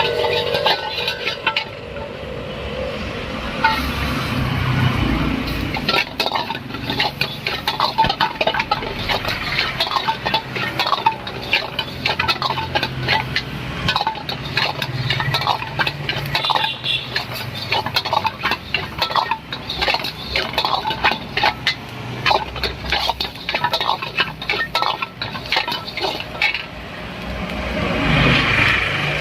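Metal spatula clanking and scraping rapidly and irregularly against a wok as fried rice is stirred and tossed, over a steady low hum.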